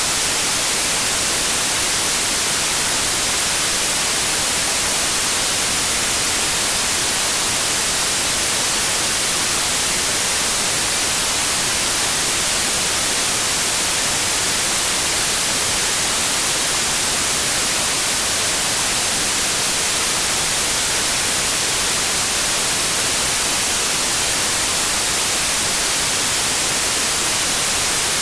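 Steady white noise: an even, unchanging hiss, brightest in the treble, from a white noise generator.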